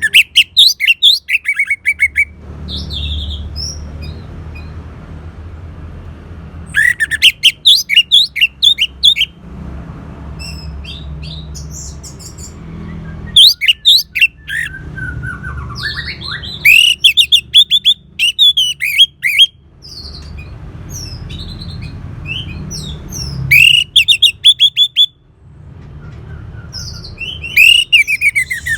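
Orange-headed thrush singing: loud bursts of rapid, varied notes about every four to seven seconds, six phrases in all, over a steady low rumble between phrases.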